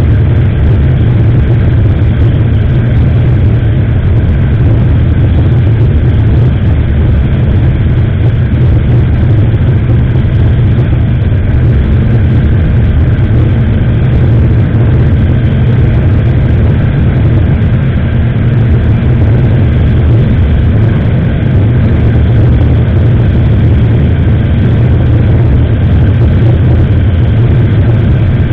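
Steady motorcycle ride noise: the engine running at an even pace under a loud, low wind rumble on the action camera's microphone, unchanged throughout.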